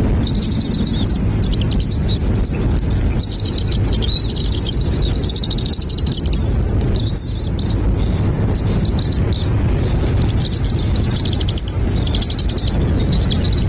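Nestling birds chirping in bursts of rapid, high-pitched calls, over a steady low rumble.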